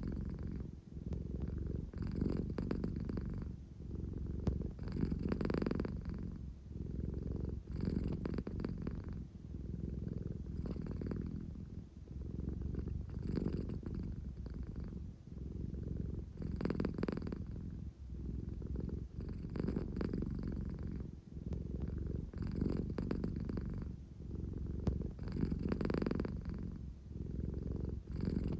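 American Shorthair cat purring steadily, the purr swelling and easing with each breath about every two and a half to three seconds: a sleepy, contented cat wanting affection.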